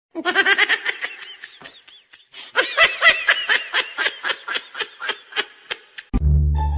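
A person laughing hard in rapid, high-pitched bursts that ease off briefly and then pick up again. Plucked-string music starts near the end.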